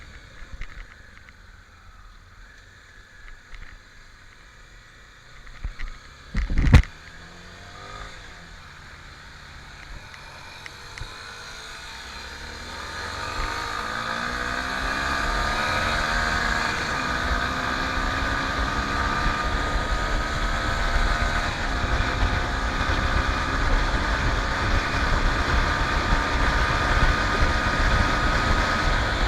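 Honda Tornado 250 single-cylinder motorcycle engine pulling away hard, its pitch climbing as it accelerates, then running steadily at high revs. A sharp, loud knock comes about seven seconds in.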